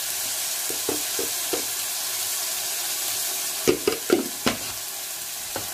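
Onion-tomato masala sizzling in a pan while a spatula stirs it, with a few knocks and scrapes of the spatula against the pan. The knocks are loudest in a cluster about four seconds in.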